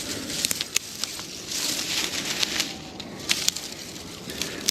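Dry twigs and brush being gathered and handled as kindling: rustling with scattered sharp snaps and cracks.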